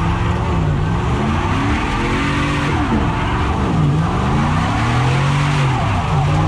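A vehicle doing a burnout: the engine revs up and down several times while the spinning tyres give a continuous screeching hiss.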